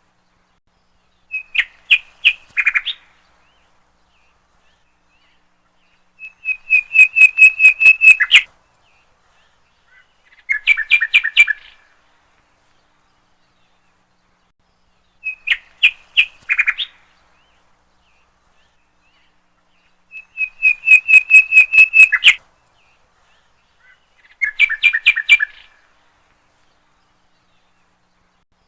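A songbird singing in short phrases of quick repeated notes, each phrase one to two seconds long with a few seconds' pause between. Three different phrases come in turn, and the same set of three repeats, six phrases in all.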